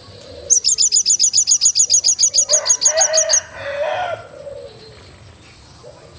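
Wild birds calling in forest: one gives a rapid run of high, evenly spaced notes, about eight a second for some three seconds, overlapped near its end by a lower, fuller call lasting about a second and a half. Soft low cooing calls come at the start and the end, over a faint steady high whine.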